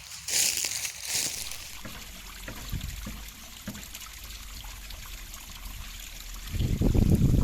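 River water trickling and flowing over rocks as a steady hiss, with a few short rustling bursts in the first second. About six and a half seconds in, a much louder low rumble comes in and runs on.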